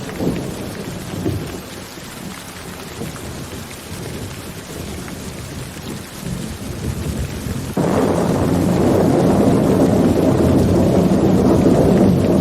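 Rain falling steadily with rolling thunder. The rumble fades for a few seconds, then a loud peal of thunder breaks in suddenly about two-thirds of the way through and keeps rumbling.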